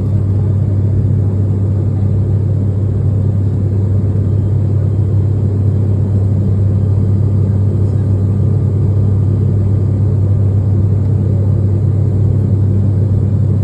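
A vehicle's engine running steadily, heard as a constant low drone with road noise.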